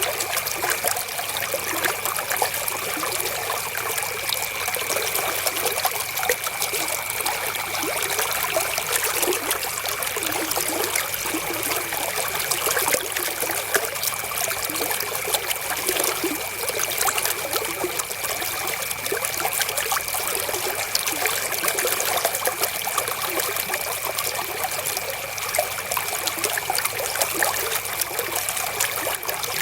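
River water flowing and trickling steadily, an even rushing splash with little low rumble.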